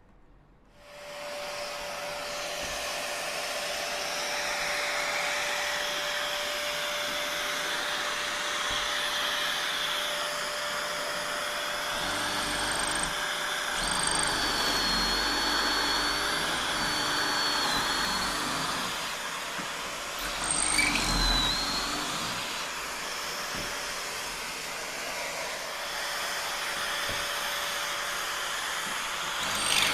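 Shop vacuum or dust extractor switched on about a second in, then running steadily with a constant hum and hiss. From about 12 to 22 seconds a second, wavering high whine and a low rumble are added, as of a power tool working.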